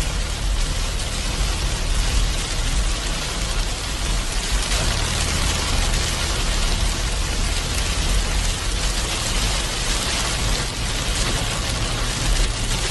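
Heavy rain falling in a steady hiss, with a constant low rumble underneath.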